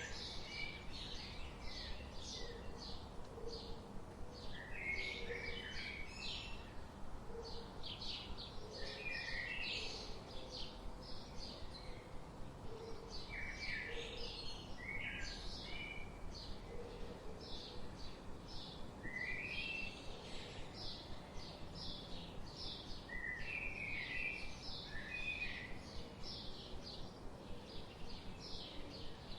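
Several songbirds chirping at once in a forest chorus, with rapid high chirps all through and short falling phrases every few seconds. A soft low note repeats under them at intervals.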